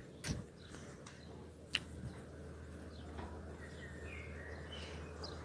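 Faint outdoor ambience with a steady low hum, a few faint bird chirps near the end, and two short sharp clicks in the first two seconds.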